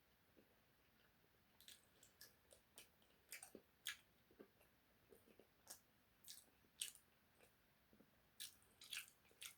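Close-up mouth sounds of someone eating juicy beef tacos: chewing, with irregular wet clicks, a few a second, starting about a second and a half in.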